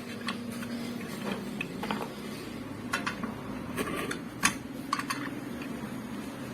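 Metal parts of a ceiling fan motor and a wrench clinking and knocking as the fan's rotating body is worked off its stator core, about half a dozen irregular taps with the loudest about four and a half seconds in.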